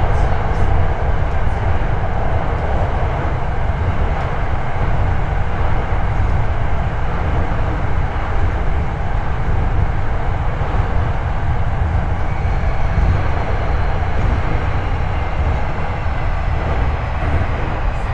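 Hankyu 8300 series electric train running at speed, heard from the floor of the motor car over its bogie: a steady rumble of wheels and running gear on the track. A faint high motor whine from the Toyo IGBT-VVVF drive comes in over the second half.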